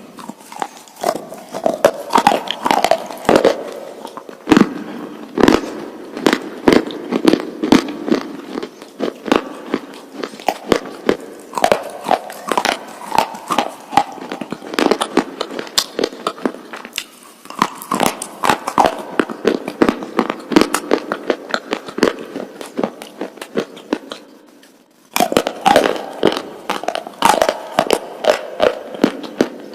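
Close-up mouth crunching: a person biting and chewing something hard and brittle, making a dense, irregular run of sharp crunches. There is a brief pause about 25 seconds in.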